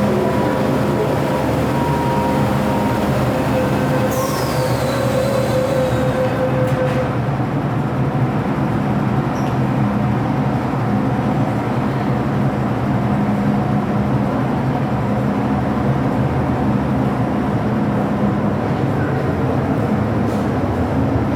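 MTR Tsuen Wan Line M-Train running on the track with a steady rumble. Two steady motor tones fade out in the first six seconds, and a brief high squeal falls in pitch about four seconds in.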